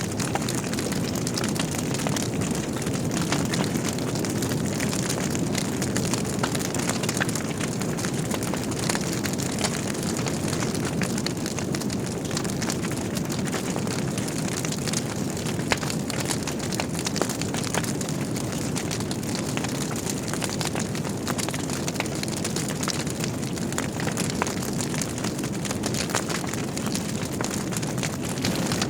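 Logs burning in a wood fireplace: a steady low rush of flames with frequent small crackles and pops, and one sharper pop a little past halfway.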